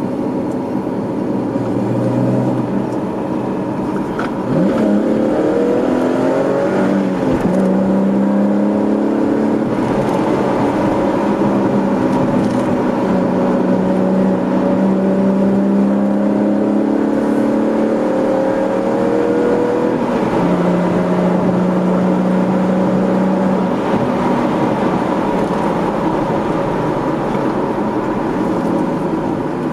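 A 2013 Chevrolet Camaro's 3.6-litre V6, heard from inside the cabin through a GM axle-back performance exhaust, pulling through the gears of its manual gearbox and then cruising. Its pitch rises from about four seconds in and steps down about seven seconds in and again near twenty seconds. The exhaust note is low and mean, without drone.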